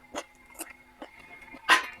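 A person eating with the mouth close to the microphone: short wet chewing and smacking sounds, with a louder, longer one just before the end.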